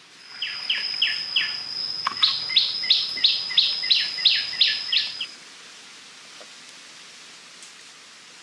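A bird singing: a long, thin high whistle with a run of quick descending notes, about three a second, that stops about five seconds in.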